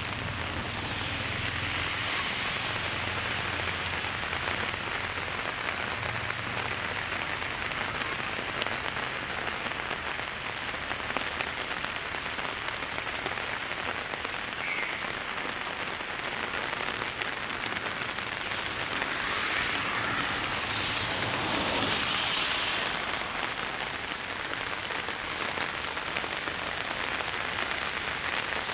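Steady rain falling and pattering on an umbrella held overhead.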